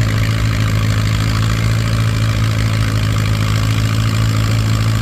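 Allis-Chalmers WD-45 tractor engine running at a steady pitch under load, pulling the weight sled down the track.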